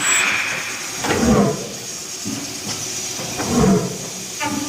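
Otto-cycle engine running slowly, with a heavy chuff and hiss about once a second in an even rhythm.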